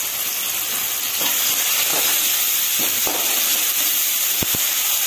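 Onion, green chilli and tomato frying in oil in a metal kadai, a steady sizzle, while a metal spatula stirs them and scrapes and knocks against the pan several times. The tomatoes are being cooked down until soft.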